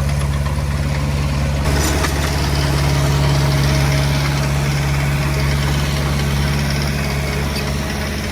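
Komatsu D20P bulldozer's diesel engine running steadily at low revs, with more high-pitched noise joining about two seconds in.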